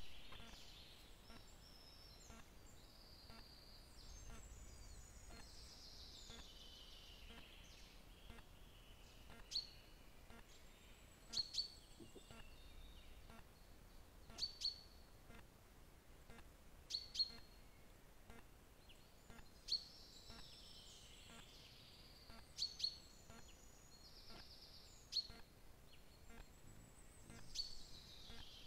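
Faint wild birdsong: sharp high chirps, often in quick pairs, every few seconds, and a few longer songs that slide down in pitch.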